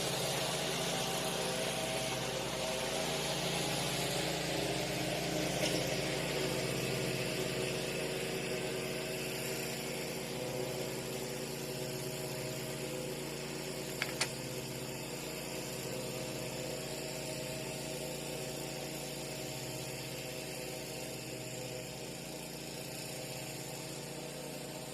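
A small motor switched on just before, running steadily with a hum and hiss and slowly getting a little quieter, with a brief click about fourteen seconds in.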